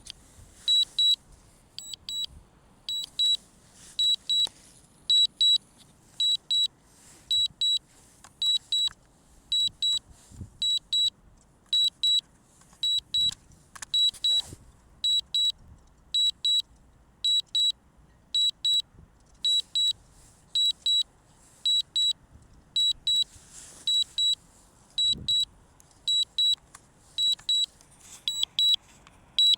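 Drone remote controller warning alarm: short high-pitched double beeps, repeating evenly about once a second.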